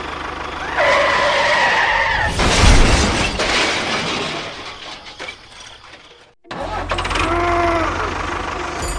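A loud crash with breaking and shattering about two and a half seconds in, fading out over a few seconds, after a held tone. A steady low engine rumble follows near the end.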